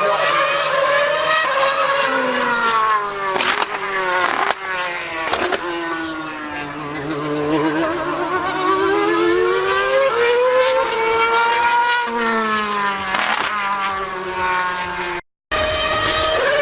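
A racing car engine at high revs, its pitch climbing and falling again and again through gear changes, with a few sharp cracks. The sound cuts out for a moment near the end.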